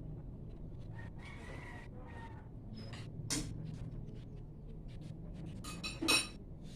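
A rooster crowing in the background, with sharp clinks of tableware, the loudest a short clatter near the end.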